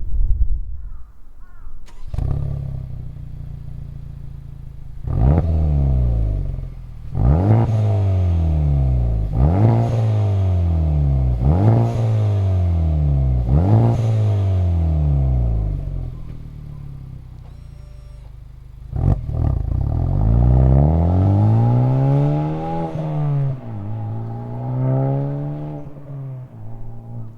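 Honda Civic Type R FK8's turbocharged K20C four-cylinder engine heard through an HKS Hi-Power Spec-L aftermarket exhaust muffler, free-revved while stationary. It idles, then is blipped five times in quick, sharp revs about two seconds apart, each falling straight back. It settles to idle, then gets one longer rev that climbs and falls, a smaller blip, and returns to idle.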